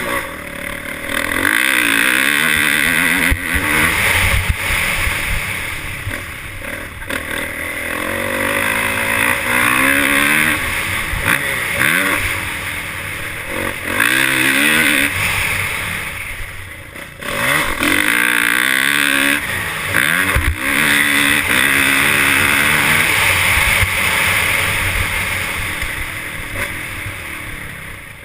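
Motocross dirt bike engines revving hard, the pitch repeatedly climbing and dropping as they go through the gears, with a brief lull a little past halfway.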